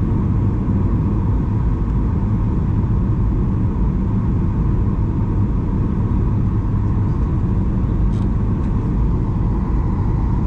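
Steady low drone inside the cabin of a Boeing 737-800: engine and air noise, even and unbroken, with a faint tick about eight seconds in.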